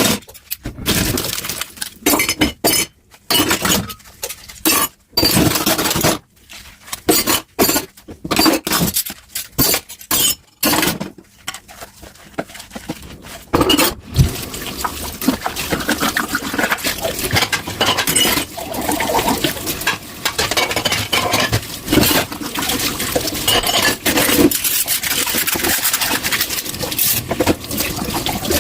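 Dishes and glasses clinking and clattering as they are hand-washed in a kitchen sink. About halfway through, tap water starts running steadily, with dishes still clinking under it.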